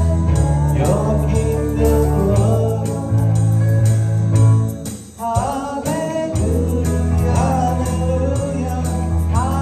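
Church worship band music with a steady bass line and a melody over it; the sound dips briefly about five seconds in, then comes back.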